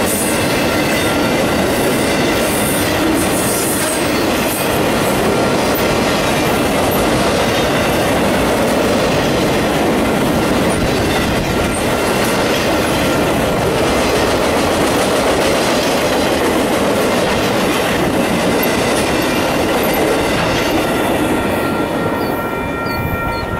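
A long train of flatcars loaded with circus trailers rolling past, its steel wheels running steadily over the rails. The sound fades near the end as the last car goes by.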